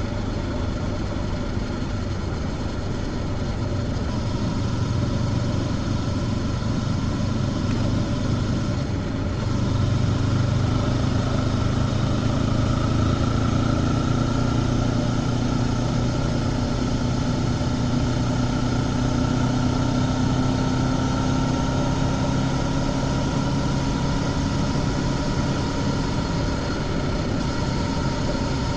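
Honda CB500X parallel-twin engine running steadily through its stock exhaust, heard from the rider's seat on the move. It gets a little louder about a third of the way in, and its note drifts slightly in pitch.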